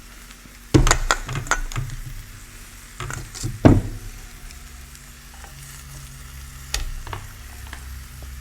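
Close-miked eating: crisp crunching and chewing of food in three bursts, about a second in, around three seconds in and near seven seconds, over a faint low hum.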